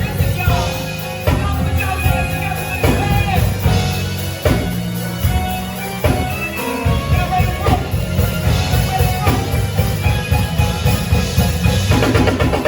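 Band music with a drum kit keeping a steady beat under a strong, full bass line.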